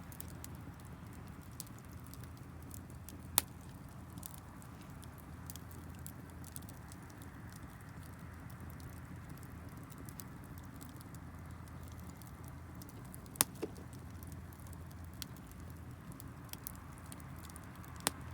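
Wood campfire crackling, with many faint ticks and three sharp loud pops spread through.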